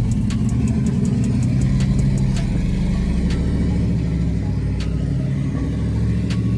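A car engine running with a low, steady rumble, with faint sharp ticks over it.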